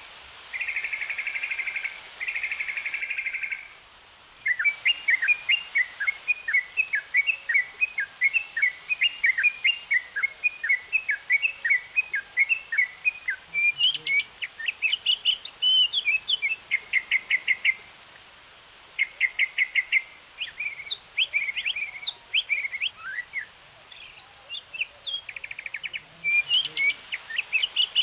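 Birds singing: short buzzy trills, then long runs of quick repeated chirps and whistled notes.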